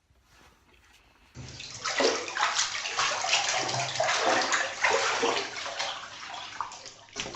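Water splashing and sloshing, starting about a second and a half in and cutting off just before the end.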